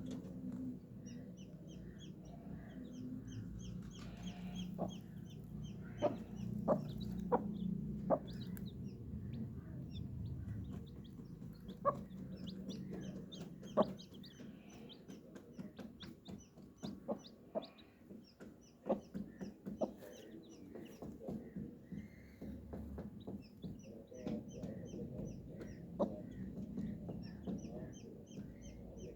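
Chicks peeping in rapid high-pitched series, with a hen clucking lower down, and sharp taps scattered throughout.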